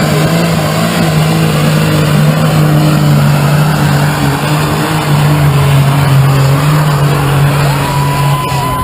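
Pulling tractor's engine running flat out at a steady high pitch under load as it drags the sled down the track. A thin, steady high whistle comes in near the end.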